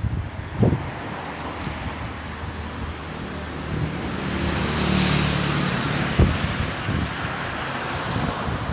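A motor vehicle passing, its engine and tyre noise swelling to a peak about halfway through and then fading, over steady wind noise on the microphone.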